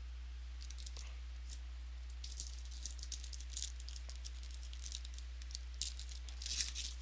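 Trading cards being handled and flipped through by hand, a run of soft crackles and rustles that grows busier near the end.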